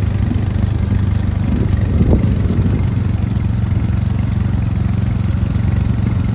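Small vehicle engine running steadily at a low, even speed.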